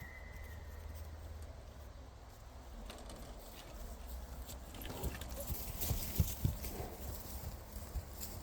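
Hoofbeats of running horses: a run of dull thuds that builds to its loudest about six seconds in, then eases off.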